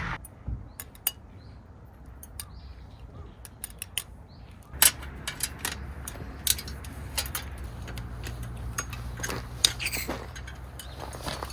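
Scattered light clinks and taps of handled utensils or cookware, with a few short bird chirps in the first few seconds. A low steady rumble joins about five seconds in.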